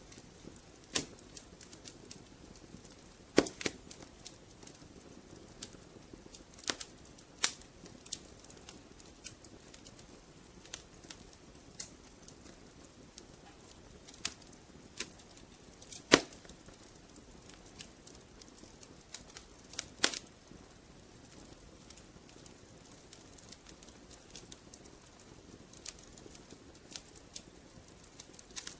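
Wood fire crackling in a fireplace: irregular small pops and ticks over a soft hiss, with a handful of sharper, louder snaps.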